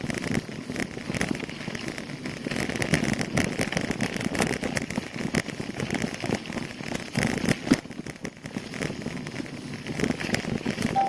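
Bicycle rolling along a rough road: continuous crackling and rattling of the tyres and bike on the road surface.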